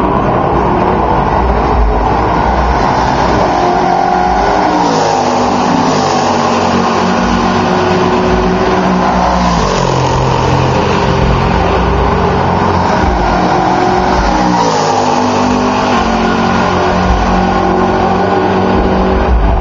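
Race cars running flat out down a straight, several engine notes overlapping, each dropping in pitch as a car passes, with clear pass-bys about 5, 10 and 15 seconds in.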